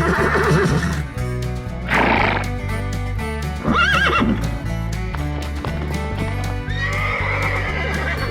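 Background music with a steady bass beat, overlaid by horse whinnies: a wavering call near the start, another about four seconds in, and a longer one near the end.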